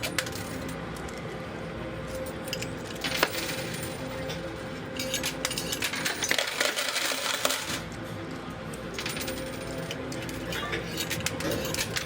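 Quarters clinking and tumbling in a coin pusher machine, with a dense rush of coins spilling over the edge from about five to seven and a half seconds in.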